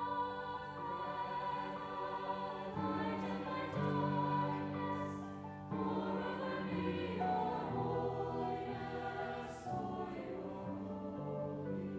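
Slow, sustained music with choir voices holding chords that change every two or three seconds, without clear words.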